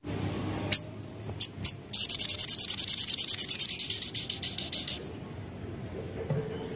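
Sogok ontong (sogon) sunbird calling: a few sharp, high chips, then a rapid high trill of about a dozen notes a second that runs for about three seconds and fades out. This is the fast twittering that keepers play as a lure to excite a bird into breeding condition.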